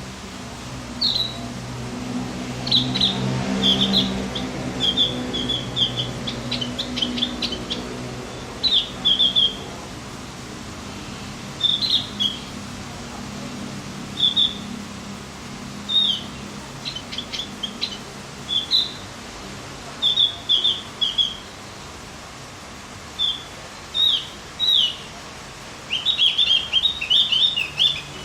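A small songbird gives short, high chirping calls in clusters a few seconds apart, with a quick run of chirps near the end. This is a masteran birdsong recording used to tutor and excite caged Javan grey-throated white-eyes.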